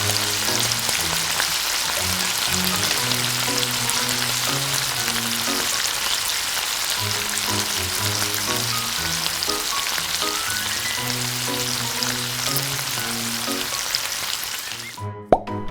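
Food frying in hot oil in a miniature pan: a steady, dense crackling sizzle, with light background music underneath. The sizzle cuts off suddenly near the end.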